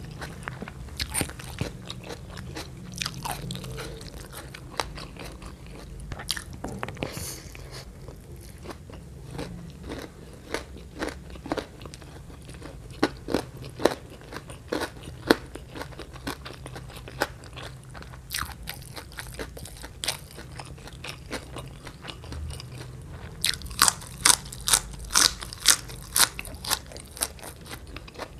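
Close-miked chewing of a mouthful of food by hand-fed eater, with scattered small crunches and mouth clicks, then a quick run of about a dozen crisp crunches near the end.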